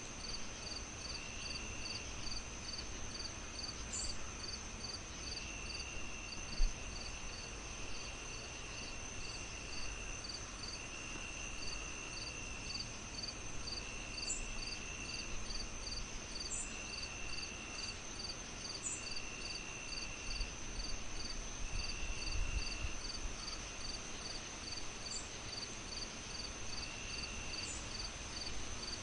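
A chorus of crickets: a steady high trill, with short chirps about two a second and longer trills of about a second every couple of seconds, over a low, even hiss. A single soft knock about six seconds in.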